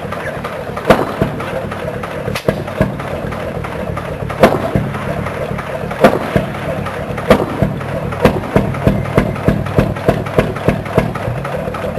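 A 1918 Bessemer 35-horsepower hit-and-miss oil-field engine running, its firing strokes sharp bangs a second or more apart over a steady low mechanical rumble. From about eight seconds in the knocks come faster, two or three a second.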